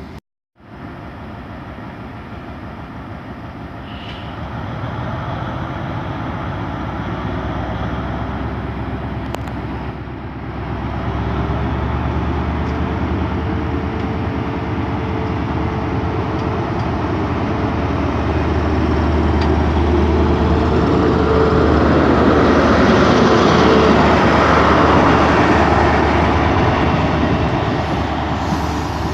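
A train running past at the platform, a steady low rumble with a humming tone that grows louder and is loudest about three-quarters of the way through.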